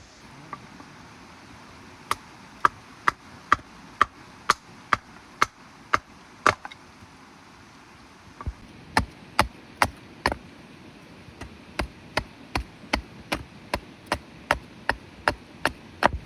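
Wood being chopped with sharp, regular strikes, about two a second. One run of about ten blows, a short pause around seven to eight seconds in, then a longer second run.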